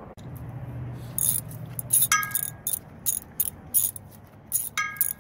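Metal hand tools clicking against metal in a quick, even rhythm of about three clicks a second, with two ringing metallic clinks, one about two seconds in and one near the end.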